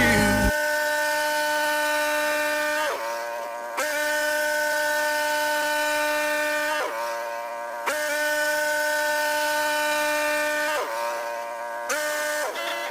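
Norwood HD38 portable band sawmill running with a steady, high-pitched whine. Its pitch sags briefly and recovers four times.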